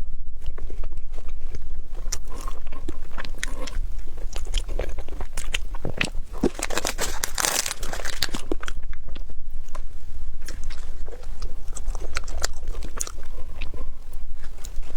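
Close-up eating sounds: repeated bites and chewing with crisp crunching clicks, busiest about halfway through.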